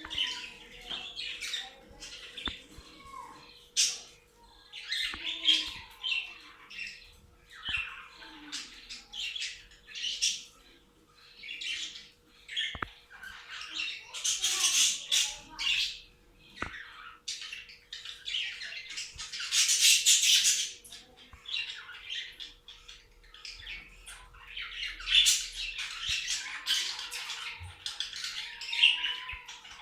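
Budgerigars chattering and squawking, many calls overlapping in dense runs with short pauses, over a faint steady hum.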